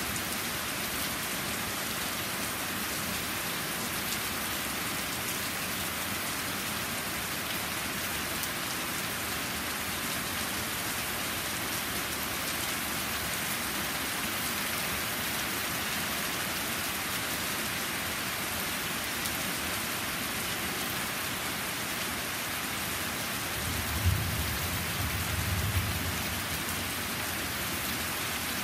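Heavy rain falling steadily on a stone patio and trees. Near the end, a sharp crack and a low rumble of thunder lasting about two seconds.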